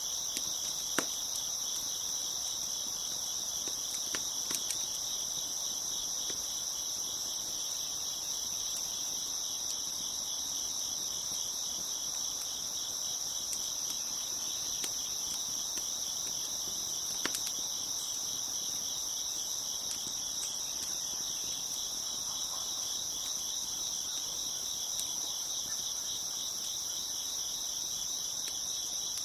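Dense, steady chorus of crickets chirping, with a few sharp crackles from a wood fire, the loudest about a second in.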